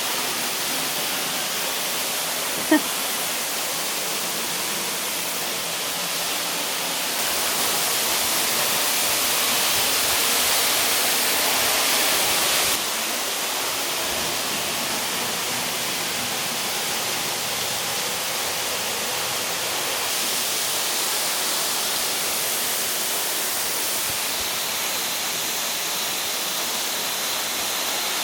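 Waterfall crashing down, a steady hiss of falling water. About a quarter of the way in it grows louder, then drops back suddenly just before halfway. A single short, sharp sound comes about three seconds in.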